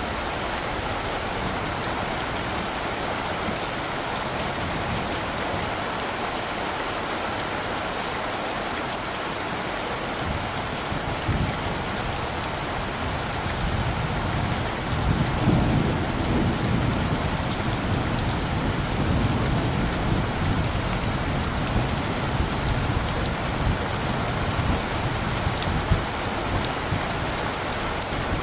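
Steady rain falling, with a low roll of light thunder rising from about ten seconds in, loudest around fifteen seconds, then rumbling on to near the end.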